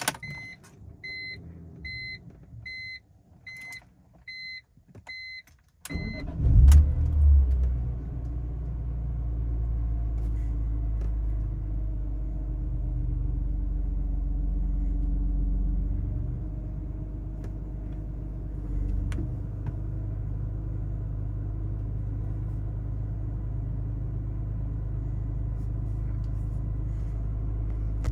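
A run of about eight evenly spaced electronic beeps, then the 2004 BMW M3's 3.2-litre straight-six engine starts about six seconds in with a loud flare of revs. It then settles into a steady idle.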